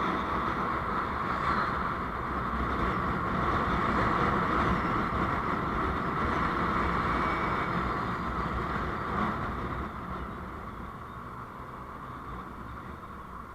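Steady road and engine noise heard from inside a moving vehicle, easing off a little after about ten seconds.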